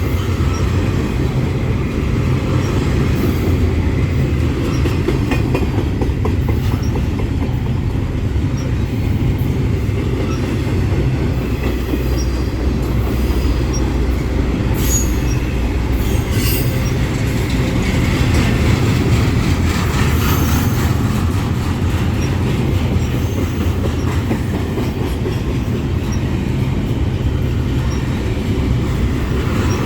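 Freight train rolling past at close range: a steady heavy rumble of cars and wheels on the rails, with a few brief high wheel squeals near the middle.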